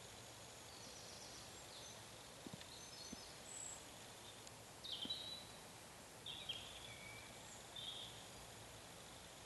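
Faint wild birdsong: scattered short high chirps and brief phrases over a steady outdoor hiss.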